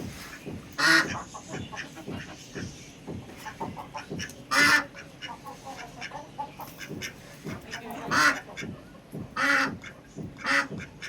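Domestic ducks quacking: five loud, short quacks stand out among a run of softer calls.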